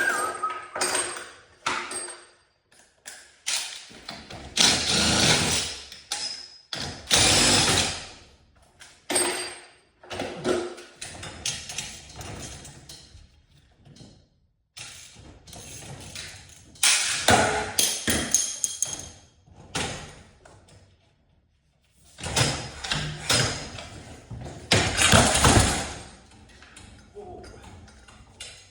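Irregular bursts of metal clattering, scraping and knocking, each a second or two long with short pauses between, some with a thin metallic ring: hands and tools at work on metal parts.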